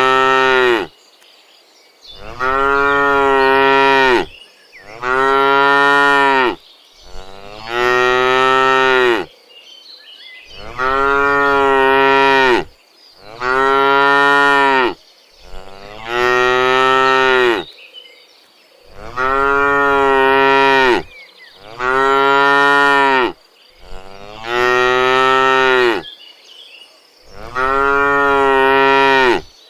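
Cows mooing: about a dozen long, drawn-out moos, one after another with short pauses between them.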